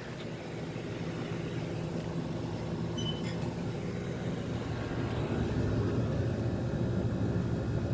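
Steady hum of running air conditioner condensing units, their compressors and fans droning with a low, even pitch that grows slightly louder toward the end.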